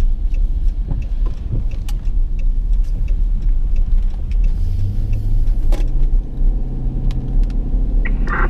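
Car driving in a heavy rainstorm, heard from inside: steady low road rumble with scattered sharp taps of rain on the car. A low steady hum joins about halfway through.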